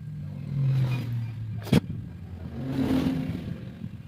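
Honda CD70 motorcycle engine, converted to 100cc with a GN5 piston, running and revved up twice, with one sharp click between the two revs.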